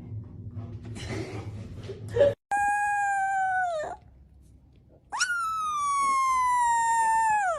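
A dog howling: two long, drawn-out howls, the second starting higher and sliding slowly down in pitch. A short scuffling noise comes just before them.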